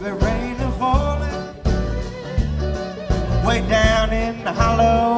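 A live band playing a song, with bass and drums keeping a steady beat under a melody line that bends in pitch in the second half.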